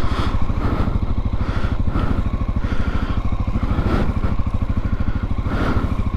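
Motorcycle engine running steadily under way on a dirt trail, with a few brief knocks as the bike goes over rough ground.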